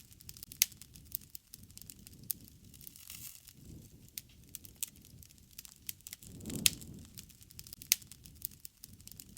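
Wood fire crackling: irregular sharp snaps and pops over a low rush that swells and fades every couple of seconds. The loudest pop comes about two thirds of the way in, with another sharp snap shortly after.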